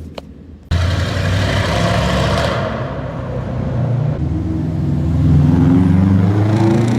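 Car engine running loud from about a second in, then revving up, its pitch rising toward the end.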